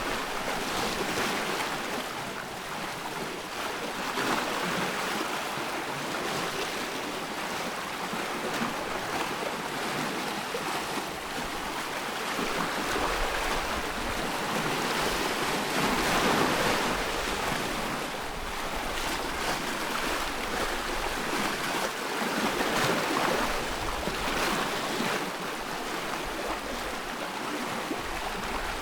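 Wood fire burning in a fireplace: a steady rushing hiss of flames with many small crackles and pops, swelling a little louder now and then.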